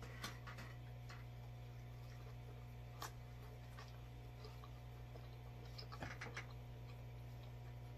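Faint mukbang eating sounds: biting and chewing dipped pizza crust, with a few short sharp clicks early, once near three seconds and a small cluster around six seconds as more food is handled. A steady low hum lies underneath.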